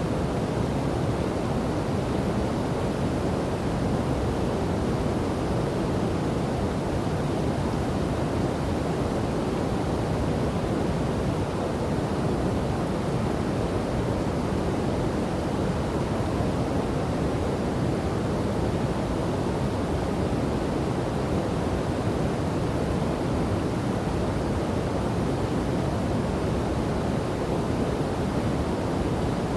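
River and waterfall water rushing in a steady, unbroken low rumble.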